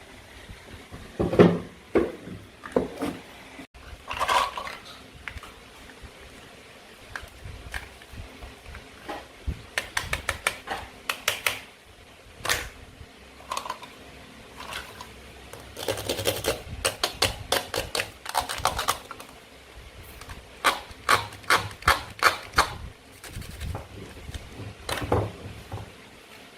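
Toy play food being handled and cut with a toy knife: a run of sharp plastic clicks, taps and clattering knocks, some coming in quick rattling clusters, with a few short ringing knocks.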